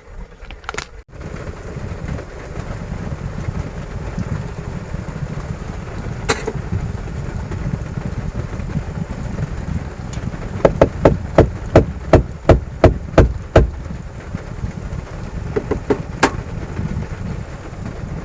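Heavy rain and wind on a campervan's body, heard from inside as a steady low rumble. About ten and a half seconds in, a run of about ten sharp knocks, roughly three a second, is the loudest sound, with a few fainter knocks a little later.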